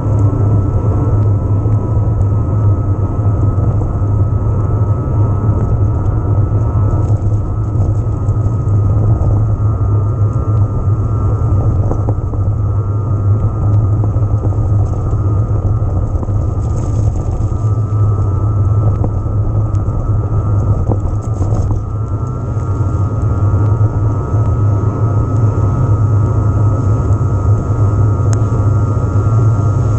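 Steady, muffled rumble of riding noise on an e-mountain bike, heard through a body- or bike-mounted action camera: wind and tyre roar while riding.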